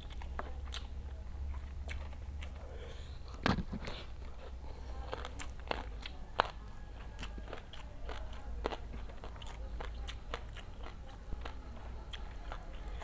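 Close-miked chewing: a person eating rice with jengkol balado by hand, with many short mouth clicks, the loudest about three and a half seconds in, over a low steady hum.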